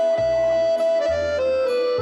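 Accordion playing a short instrumental phrase: a held high note steps down about a second in over sustained chords, with bass notes sounding underneath.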